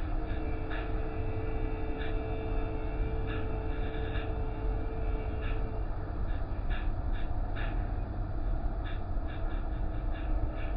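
Car wash machinery running: a steady low rumble with a motor hum that stops about halfway through, and irregular short slaps or spatters over it.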